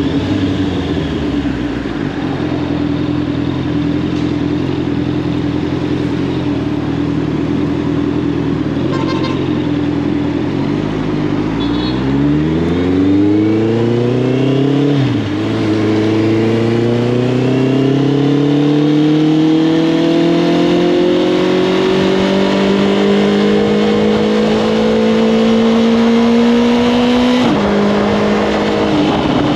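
Honda CB650R's inline-four engine running through an Arrow Thunder full aftermarket exhaust system under way: it holds a steady pitch, then revs up quickly and drops sharply at an upshift about halfway, then pulls up more slowly through the next gear before shifting again near the end.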